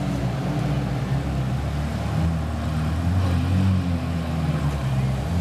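Ferrari 458's V8 engine running at low revs, its note wavering slightly up and down as the car creeps forward at walking pace.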